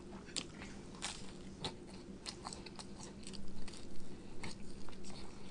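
Close-miked biting and chewing of toasted garlic bread: scattered crisp crunches, coming thicker and louder about halfway through.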